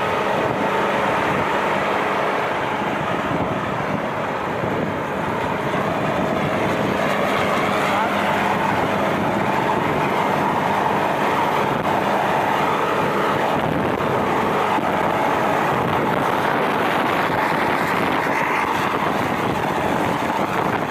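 Tractor engine running steadily, with voices in the background.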